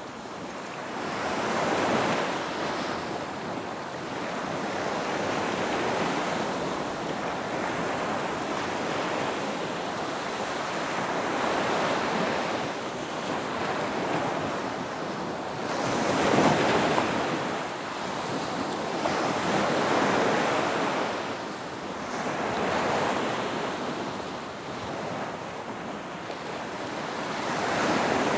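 Ocean waves breaking on a beach: a continuous wash of surf that swells and recedes every few seconds, the loudest breaker about halfway through.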